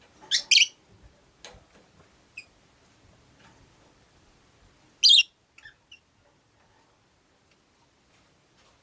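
Rosy-faced lovebirds calling with short, shrill chirps: two loud calls near the start and another about five seconds in, with quieter chirps and clicks in between.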